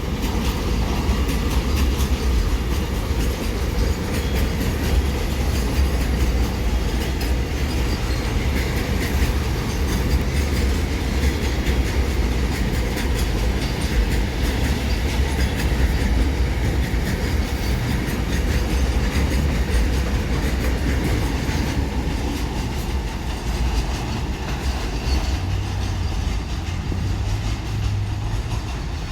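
Container freight train's wagons rolling past, with a steady low rumble and wheels clicking irregularly over the rail joints.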